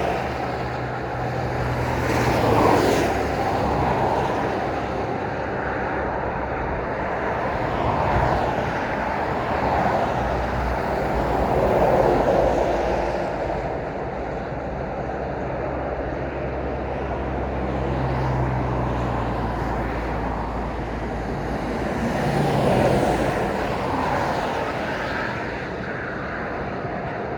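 Road traffic at night: cars and lorries pass one after another, each one's tyre and engine noise swelling and fading, over a low engine hum.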